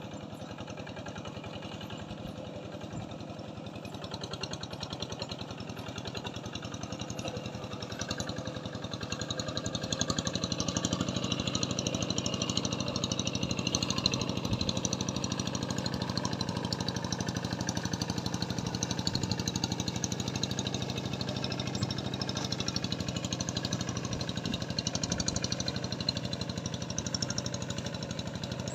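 A small engine running steadily, growing louder about eight to ten seconds in and staying at that level.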